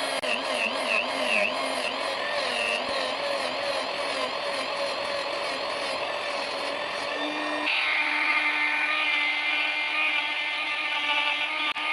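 A small electric power tool running continuously, its whine wavering as it is pressed against metal. About eight seconds in it changes to a steadier, different pitch.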